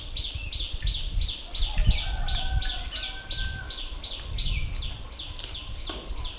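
A high-pitched animal chirp repeated steadily, about three times a second, over a low rumble.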